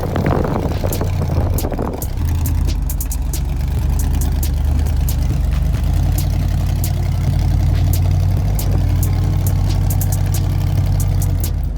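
Monster truck engine running, a steady deep drone, with sharp clicks and rattles scattered throughout. It is louder and rougher for the first two seconds, then settles into an even run.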